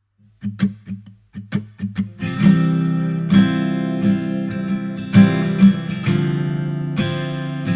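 Acoustic guitar playing a song intro: a few single plucked notes, then strummed chords from about two seconds in.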